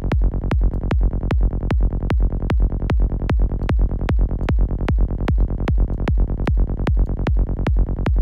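Forest psytrance loop played from a software synthesizer: a gritty, buzzy saw-wave bassline from Serum 2 running under a kick drum that hits a little over twice a second, with an effect applied to the bass that changes its tone.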